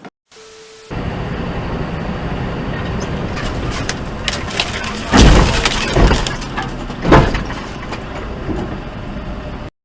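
Vehicle crash: steady vehicle and road noise, then about five seconds in a run of three loud crunching impacts over about two seconds, with breaking and cracking.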